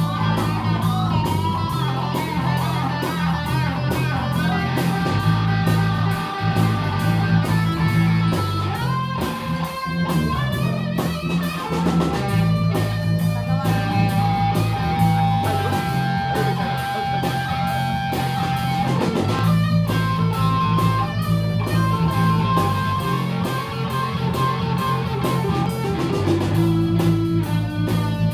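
Live rock band playing: electric guitar over a steady bass line and drums with regular cymbal hits.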